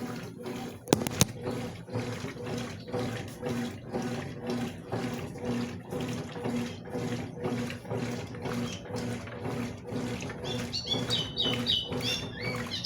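Consul CWS washing machine agitating a load of towels in water: a motor hum that pulses in a steady rhythm over sloshing water. Bird chirps come in near the end.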